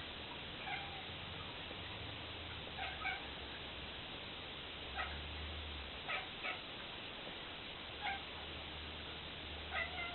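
Domestic cat making its 'bird meow', a series of short chirping meows, some in quick pairs, at magpies it is watching. Steady hiss underneath.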